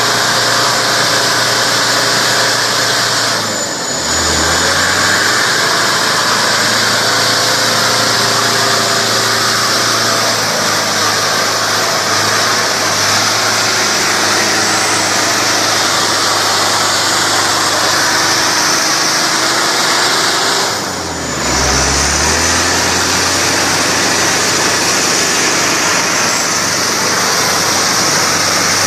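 Mitsubishi Canter 4x4 truck's diesel engine running steadily. It dips briefly twice, about four seconds in and again about twenty-one seconds in.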